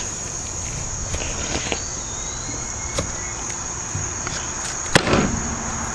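Crickets trilling in a steady, high, even tone, with a few light taps and one sharp knock about five seconds in as a knife splits a whole chicken breast through the breastbone.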